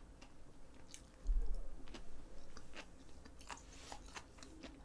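Close-miked chewing of food, with a few small clicks and a low dull bump just over a second in.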